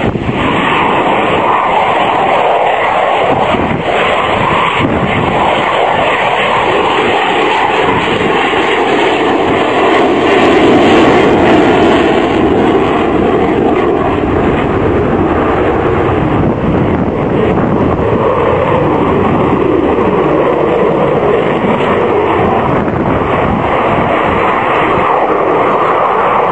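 F-16 fighter jet's single engine roaring through a display pass, swelling to its loudest about eleven seconds in.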